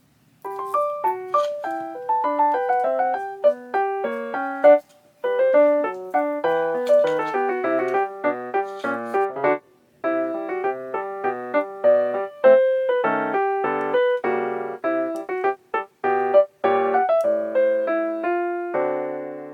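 Background music: a light, plucky piano or electric-piano melody of short separate notes, with brief pauses a few times and a held chord near the end.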